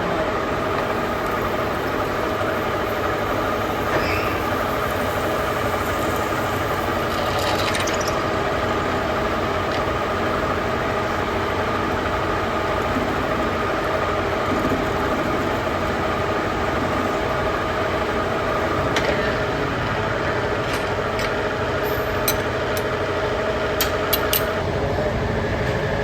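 Factory machinery running steadily, a constant drone with several steady humming tones, and a few sharp clicks near the end.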